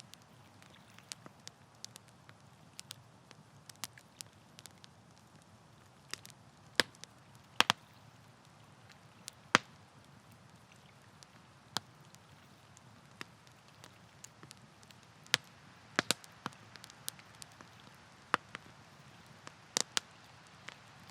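Wood campfire crackling: irregular sharp pops and snaps, a few much louder than the rest, over a faint steady hiss.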